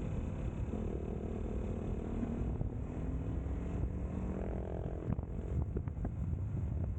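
Kawasaki Versys 300 parallel-twin motorcycle engine running at road speed, its pitch drifting a little, with wind rushing over the microphone.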